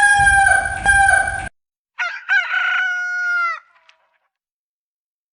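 Rooster crowing: the end of one long crow, then a second, shorter crow about two seconds in that trails off in a falling note.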